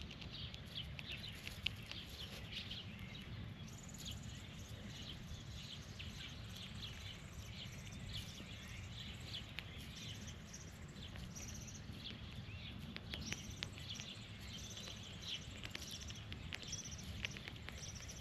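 Small birds chirping over and over in short calls, with sharp little clicks among them, over a steady low rumble.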